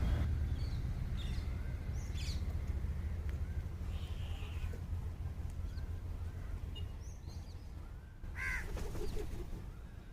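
A crow gives one short caw about eight and a half seconds in, over a steady low background rumble with faint high chirps.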